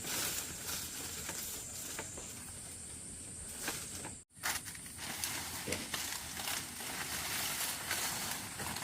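Steady rain and wind in a storm, with scattered sharp taps of drops and debris, cutting out for a moment about four seconds in.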